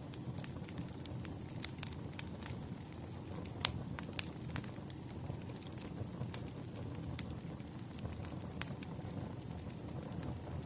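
Wood fire burning, a steady low rumble with irregular sharp crackles and pops from the burning logs.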